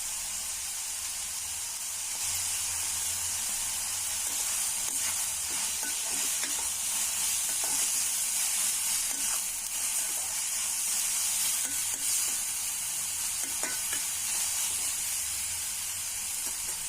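Chopped onions sizzling as they sauté in hot oil in a pan, with a spoon stirring them and ticking against the pan. The sizzle grows louder about two seconds in.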